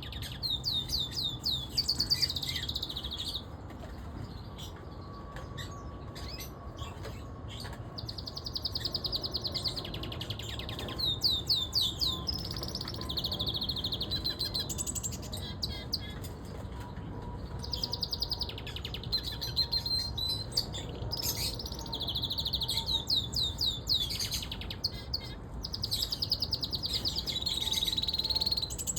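Siskin canary singing: bouts of fast, high trills and twitters, several phrases with short pauses between them.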